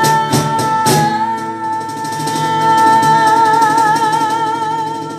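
Worship song: a singer holds one long note on "bom", with vibrato coming in about halfway, over acoustic guitar strums that thin out after the first second.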